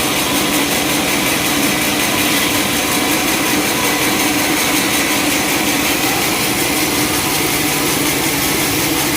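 Sawmill machinery running steadily, a loud, even engine-and-saw noise with a constant hum.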